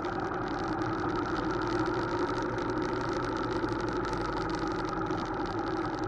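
Motorcycle engine running steadily at a constant, low speed, with no revving.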